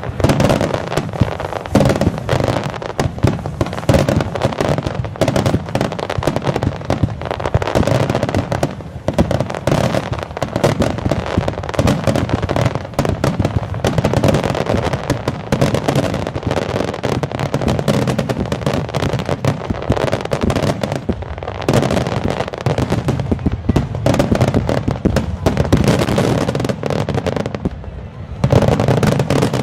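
Starmine fireworks barrage: shells going off in rapid, overlapping succession, a dense run of bangs and crackle with hardly a gap, easing briefly near the end.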